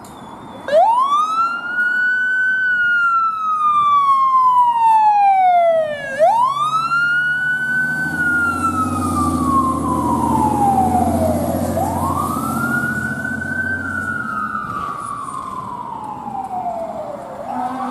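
Fire engine siren wailing in three long cycles, each pitch climbing quickly then falling slowly over about five seconds before winding up again near the end.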